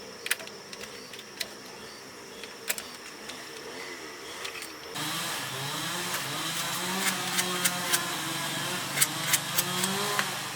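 Light clicks and taps of work on metal, then about halfway a motor starts suddenly and runs with a wavering pitch while sharp clicks continue over it.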